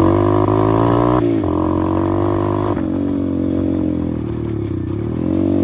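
125cc pit bike engine pulling hard under throttle while being ridden. Its pitch dips briefly about a second in, falls to a lower, steadier pitch about halfway through as the throttle eases, and climbs again near the end.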